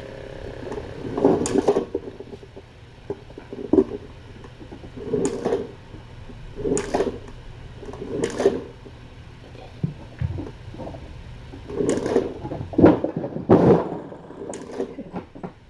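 Kittens playing and scuffling: a series of short bumps and scrabbling noises, about nine in all, the busiest run near the end, over a steady low hum.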